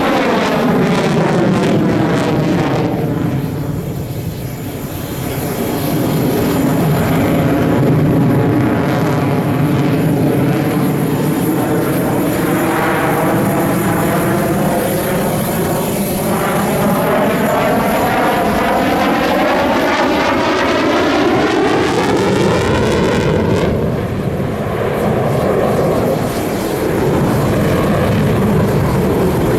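Jet fighter engines of the Russian Knights display team running loud and steady as the aircraft move past, with a slowly sweeping, hollow phasing in the tone. The sound eases briefly a few seconds in and again about three-quarters of the way through.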